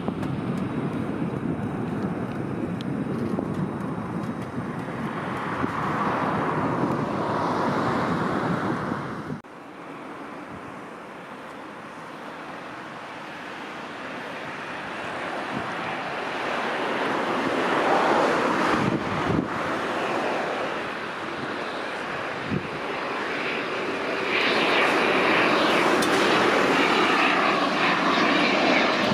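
Lockheed C-130H's four turboprop engines running, cut off abruptly about a third of the way in. Then a Kawasaki T-4 jet trainer's twin turbofans, quiet at first and swelling to their loudest near the end as it flies touch-and-go landings.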